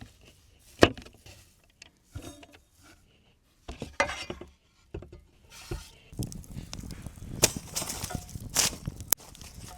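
Cookware and utensils clinking and knocking: a few separate sharp strikes, then from about six seconds in a busier run of clatter.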